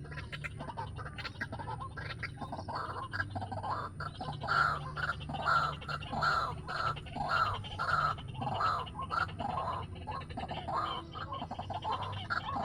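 White-breasted waterhen calling: a long series of repeated harsh calls, about one and a half a second, over a steady low hum.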